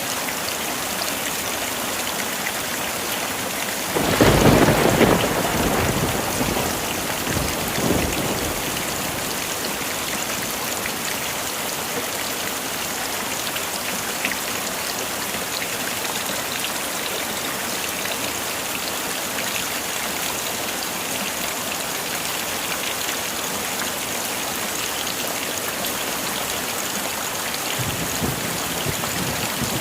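Heavy rain falling steadily, with a clap of thunder about four seconds in that rumbles for several seconds before fading, and a fainter rumble of thunder near the end.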